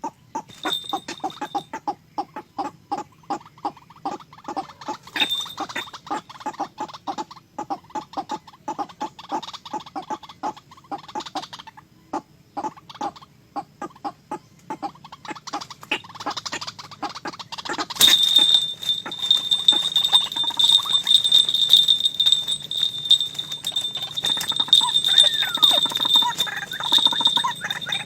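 Fowl calling in a fast run of short, repeated clucking notes, several a second. About two-thirds of the way through, a steady high-pitched whine with hiss starts suddenly and continues.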